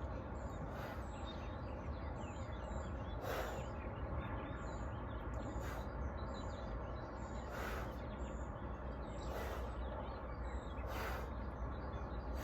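Steady outdoor background rumble with small birds chirping, and a breathy rush every two seconds or so: deep exhales during a breathing exercise.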